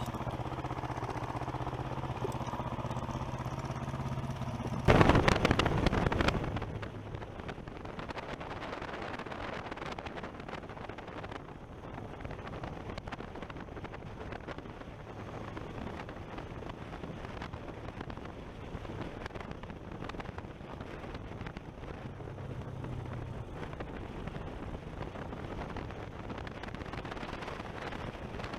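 A small engine running with a steady hum, then a loud blast of noise about five seconds in, after which steady engine and wind noise carry on.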